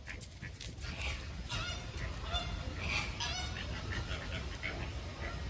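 Peafowl calling: a quick cluster of short, repeated calls, most of them about one to three and a half seconds in, over a steady low rumble.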